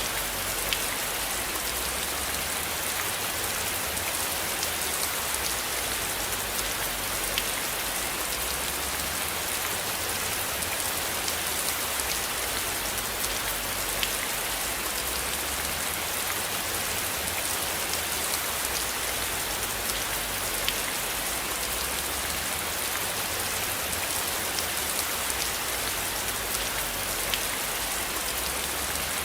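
Steady rain hiss with scattered sharp drop ticks, and a low rumble underneath that comes and goes.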